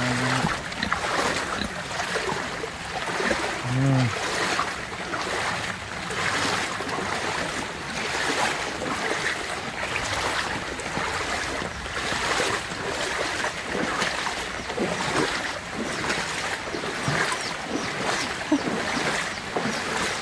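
Floodwater rushing, a continuous noisy wash that swells and fades.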